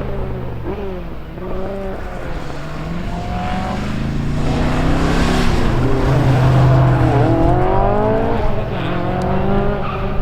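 Rally car engine revving hard through gear changes, its pitch repeatedly climbing and dropping. It grows louder toward the middle, as the car comes close, then eases off.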